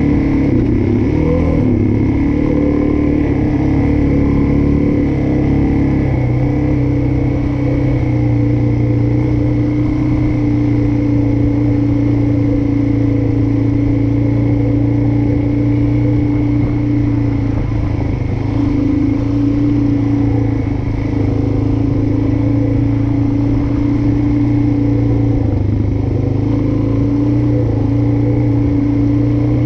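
Suzuki DR-Z400S's single-cylinder four-stroke engine running under way at fairly steady revs, with a few short rises and falls in pitch in the first several seconds.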